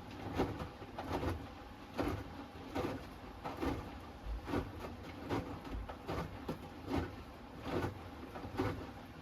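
Hoover Axi 10 kg front-loading washing machine in the wash phase of its Rapid 30-minute programme, the drum turning. Laundry and water slosh and drop in a regular rhythm, about one stroke every 0.8 s, over a low motor hum.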